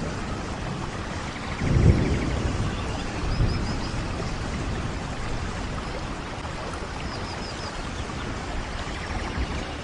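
Steady rain, with a low rumble of thunder swelling about two seconds in and a weaker one a second and a half later.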